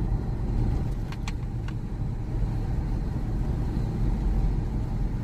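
Car driving, a steady low engine and road rumble, with a few faint clicks about a second in.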